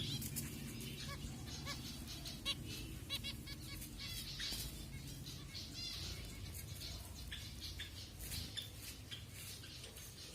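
A group of zebra finches calling: many short, quick chirps and nasal beeps overlapping throughout, over a low steady hum.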